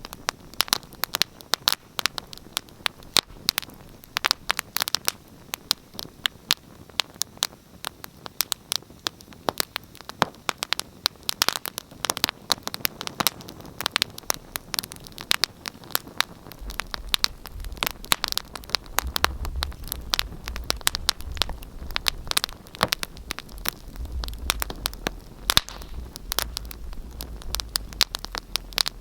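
Wood fire crackling in a fireplace: a dense, irregular stream of sharp pops and snaps over a soft hiss, with a low rumble joining in a little past halfway.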